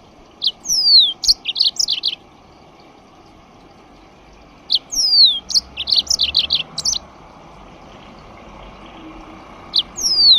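A songbird singing the same short phrase over and over: a brief note, a long falling whistle, then a quick run of high notes, about every five seconds. The third phrase begins near the end.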